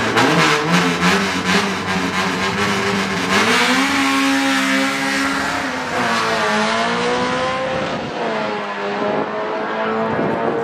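A hatchback drag car's engine revving hard and accelerating away down the strip. Its pitch climbs and drops back at each gear change.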